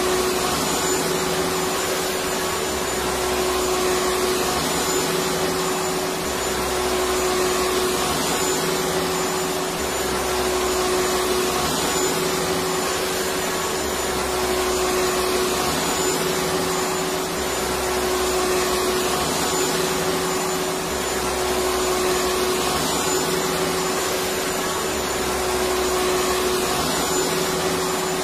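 Electric vacuum cleaner running continuously: a dense, steady whooshing drone with a steady whine, over a low hum that swells and fades evenly about every two seconds.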